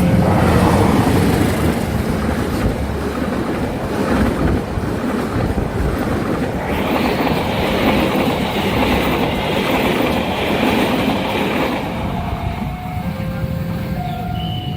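A train passing close by at speed, a dense rumble with clattering wheels. From about twelve seconds in the noise eases and the steady tones of the level-crossing warning signal come through.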